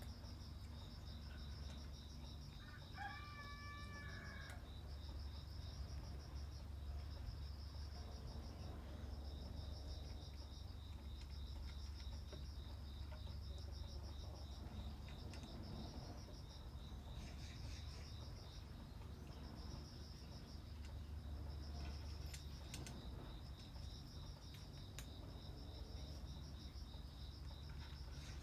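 Crickets chirping in a steady, pulsing rhythm, with a rooster crowing once in the distance about three seconds in.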